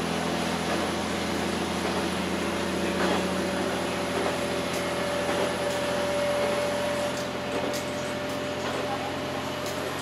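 Ibara Railway diesel railcar running along the line, heard from inside the front of the car: a steady engine drone and running noise, with a steady whine joining about three seconds in.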